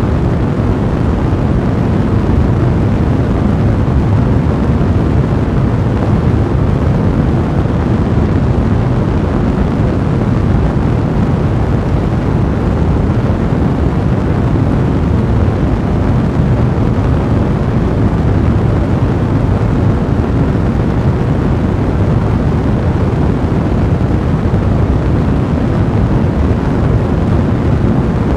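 A fireplace fire burning at a full blaze: a steady, deep rushing noise of flames with no single crackle standing out.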